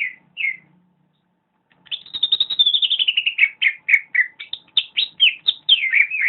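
Green leafbird (cucak ijo) singing: a couple of chirps, a pause of about a second, then a fast, continuous run of high chirps and sliding whistled notes.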